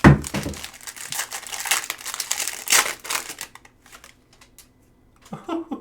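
Crinkly plastic wrapping being torn and crumpled as a trading card box is opened, with a dense crackling that starts suddenly and fades after about three seconds.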